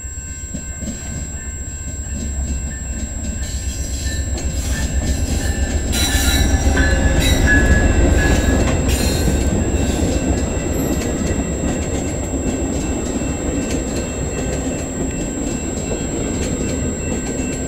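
VIA Rail passenger train led by Siemens Charger diesel locomotive 917 rolling into the station, its low rumble building to a peak about seven seconds in. High-pitched wheel squeal rises from about four seconds in and fades near the ten-second mark as the coaches pass.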